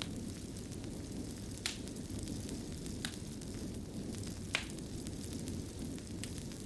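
Fire in a fireplace crackling over a steady low rumble, with three sharper pops about a second and a half apart.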